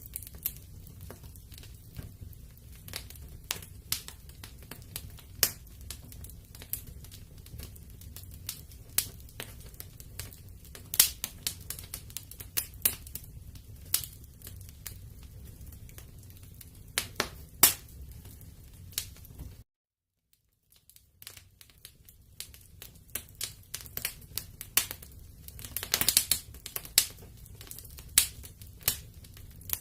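Wood fire crackling in a fireplace: irregular sharp pops and snaps over a low, steady rumble of flame. About twenty seconds in the sound cuts out completely for about a second, then returns, with a denser run of crackles a few seconds later.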